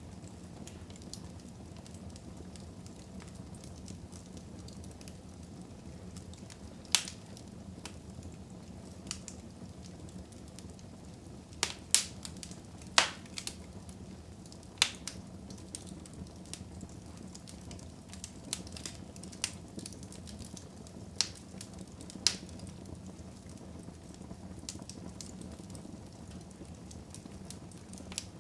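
Fire burning in a fireplace: a steady low hiss broken by scattered sharp crackles and pops, with a cluster of the loudest pops near the middle.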